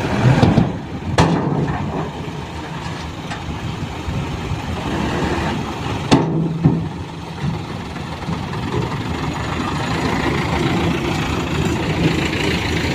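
Small diesel dump truck engine running steadily, with a sharp knock about a second in and another about six seconds in.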